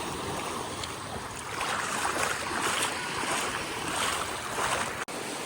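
Ocean surf washing onto a sandy beach, swelling louder twice as waves come in, with a brief drop-out in the sound near the end.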